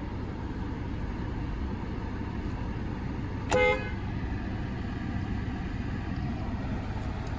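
A 2018 Honda Accord's 2.0-litre turbocharged four-cylinder idles steadily, a low hum heard from inside the cabin. A short horn toot sounds about three and a half seconds in.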